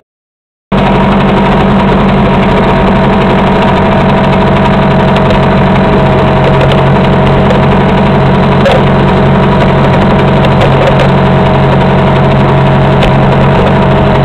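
1975 British Seagull 40+ Mark II outboard, a single-cylinder two-stroke, running steadily at a low, even speed. The sound cuts in just under a second in, after a moment of silence.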